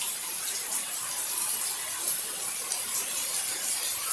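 Heavy rain pouring down, a steady, even rush of water noise.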